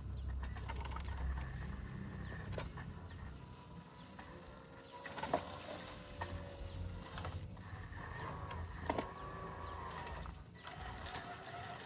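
Small electric motors and gearing of radio-controlled construction machines working, with scattered clicks and a whine that rises and then falls about halfway through.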